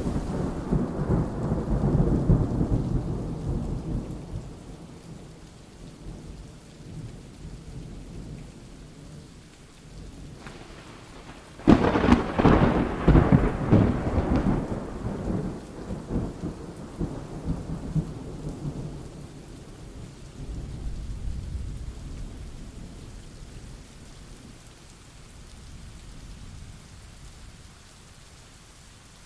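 Steady rain with thunder. A rumble of thunder sets in at the start and dies away over a few seconds. A louder, sharper crack about twelve seconds in rolls on for several seconds, and a fainter rumble follows near the two-thirds mark.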